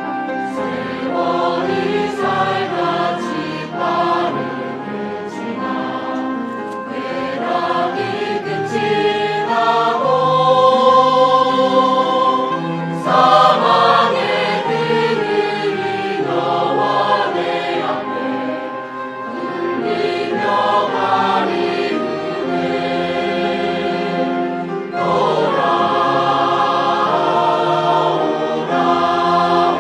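Church choir singing a hymn in several parts with long held notes, swelling louder twice.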